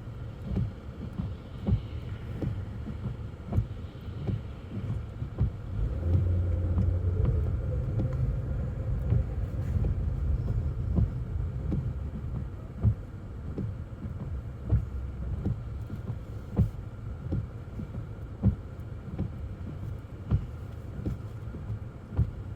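Car cabin rumble from the engine and tyres on a snowy road, with the windshield wipers knocking at the end of each sweep about every two seconds. The engine note rises for a couple of seconds near the start as the car pulls out.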